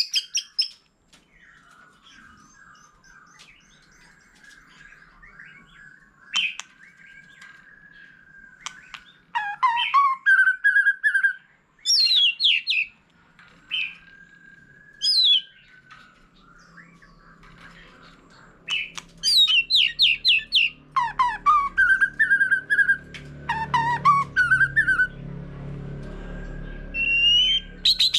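White-rumped shama singing: loud bursts of fast, varied whistled phrases with quick sweeps up and down, separated by quieter gaps in which a softer, drawn-out whistle carries on.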